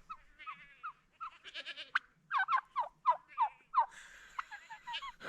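Domestic turkey calling: a quick run of short, falling yelps and clucks, densest in the middle of the stretch.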